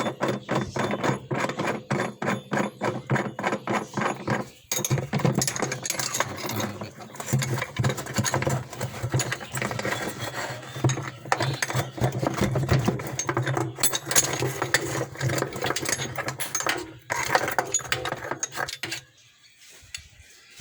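Tools working a three-jaw puller to pull the gearbox off an LG top-loading washing machine's tub. First a steady run of metallic clicks, about three or four a second, then from about five seconds a denser mechanical rattling over a low hum that stops sharply near the end.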